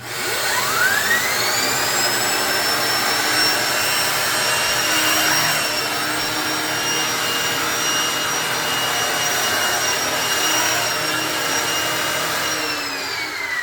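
Shark Navigator Lift-Away Pro upright vacuum cleaner switched on: its motor whine rises in pitch over about two seconds to a steady, loud run, then falls away as it is switched off near the end.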